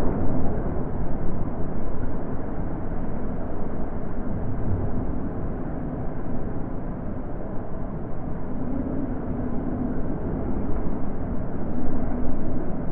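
Wind blowing, a low rushing noise that swells and eases in gusts, louder at the start and again near the end.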